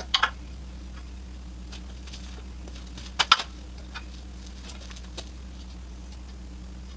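Two short clusters of sharp clattering knocks, about three seconds apart, then a couple of faint ticks, over a steady low hum.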